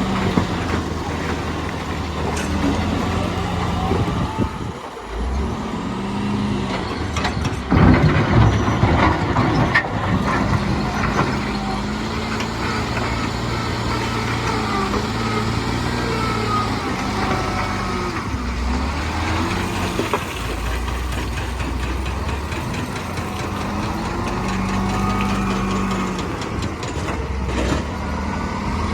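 Heavy diesel earthmoving machinery working, its engine revving up and dropping back several times. About eight seconds in comes a louder, noisy stretch with knocks lasting a couple of seconds.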